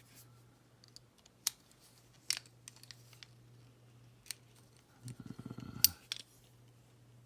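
Small screws being driven into plastic model parts with a hand screwdriver: scattered sharp clicks of tool on plastic, and a rattle of rapid clicks about five seconds in. The screws are going in crooked.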